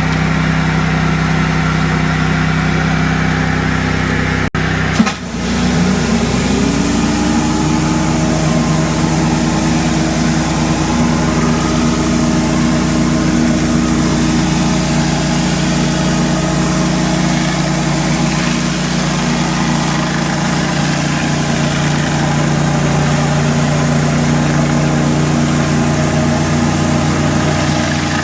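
Pressure washer engine running steadily under load. About five seconds in there is a sharp click and a brief drop, then a tone rises and settles a little higher as the running carries on.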